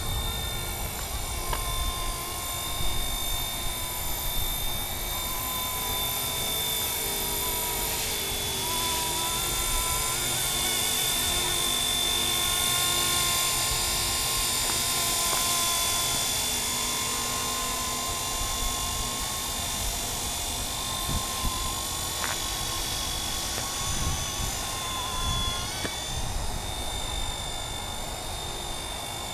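Radio-controlled MD 500 scale model helicopter flying, its electric motor and rotors giving a steady high whine. The pitch wavers briefly about eight seconds in and again near the end.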